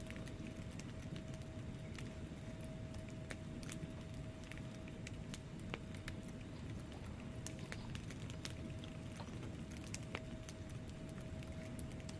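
Wood fire burning in a fireplace: irregular sharp crackles and pops from the logs over a steady low rumble of the flames, with a thin steady hum underneath.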